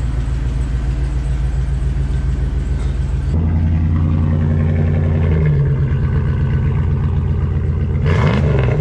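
1998 Dodge Dakota's engine running through a straight-piped exhaust with the muffler removed, a loud steady exhaust note that turns louder and deeper about three seconds in.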